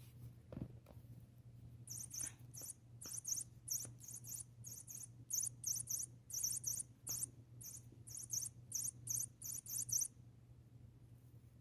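A quick run of about two dozen short, very high squeaks, often in pairs, starting about two seconds in and stopping about two seconds before the end, over a steady low hum; a soft bump just before the squeaks begin.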